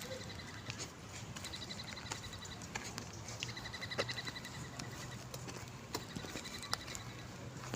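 Forest ambience: short, evenly pulsed chirping trills, repeated several times, over scattered light clicks and a low steady hum.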